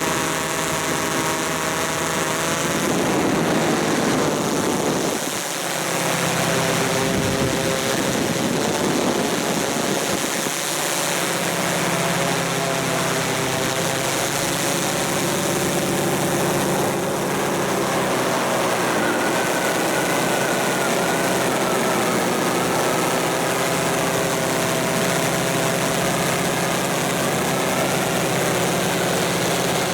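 Continuous mechanical running with a steady noisy rush and several whining tones that drift up and down in pitch.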